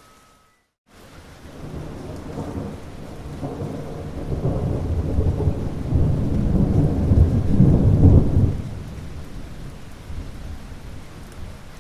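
Steady rain falling, with a long roll of thunder that builds from about two seconds in, is loudest a little past the middle, and then dies away. The sound drops out completely for the first second.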